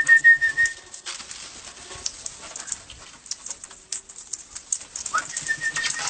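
Parrots making scattered short, scratchy squawks and chatter, with a long whistle that rises and then holds a steady pitch at the start and again about five seconds in.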